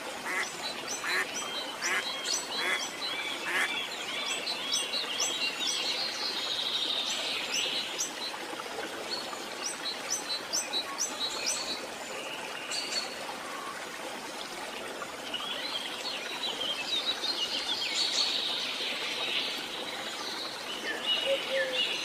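Birds chirping and calling in quick runs of short repeated notes, coming in clusters over a steady background hiss.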